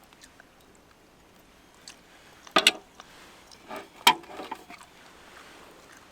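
Close-up eating sounds: chewing, with a few sharp clicks, the loudest about two and a half and four seconds in.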